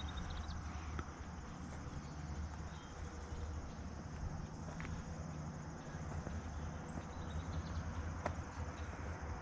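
Footsteps walking across a bridge deck, with a steady chorus of insects chirring in the background.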